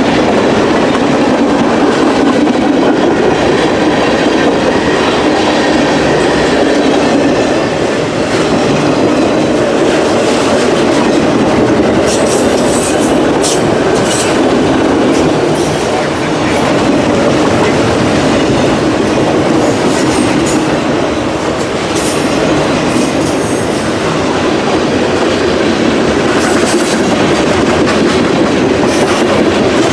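Freight train rolling past, a steady loud rumble with the clickety-clack of wheels over the rails; from about twelve seconds in, short sharp metallic squeals and clicks from the wheels cut in now and then.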